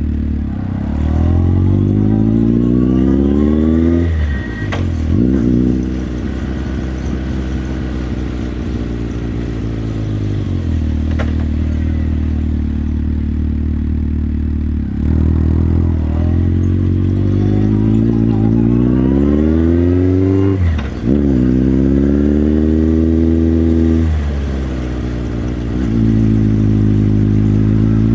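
Motorcycle engine accelerating in two spells, its pitch climbing and then dropping sharply at each gear change. Between the spells it runs at lower, easing revs, and it finishes holding steady revs.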